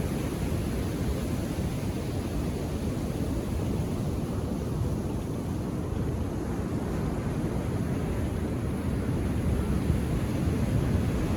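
Indian Ocean surf breaking on a beach: a steady, low rushing wash of waves that eases slightly midway and swells a little near the end.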